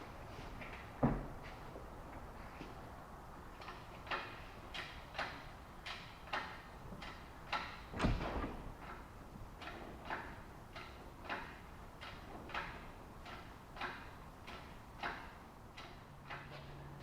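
A run of short knocks and clicks, about one every half second or so, with two heavier thumps, one about a second in and one about halfway through.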